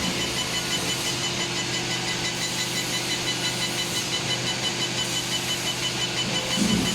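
Welding equipment running with a steady hum and an even hiss, while welding sintered wire mesh filter elements, with a faint high tone pulsing evenly.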